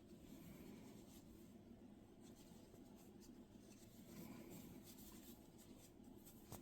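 Near silence, with faint scratchy rubbing and light ticks of a crochet hook working yarn through a mini bobble stitch.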